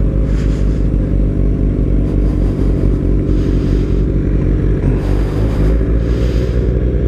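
Sport motorcycle engine running at a steady cruise while being ridden, with a strong low rumble underneath and little change in pitch.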